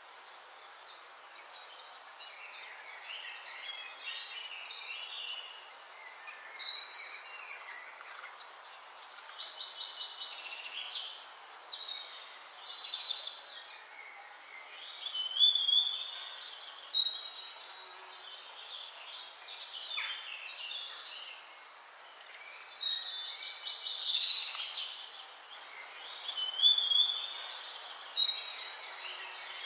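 Several birds singing at once, overlapping high-pitched chirps, whistles and trills that come in clusters every few seconds, over a steady hiss.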